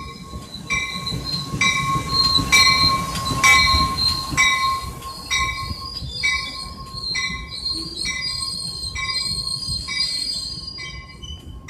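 Grade-crossing warning bell ringing about once a second over the rumble of a single-level passenger train passing, with a steady high wheel squeal.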